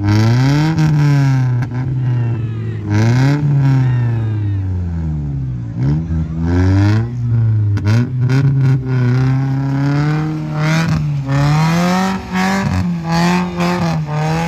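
An off-road vehicle's engine revving up and down over and over, its pitch climbing and dropping every second or two as it works under load through an obstacle, with a few short knocks.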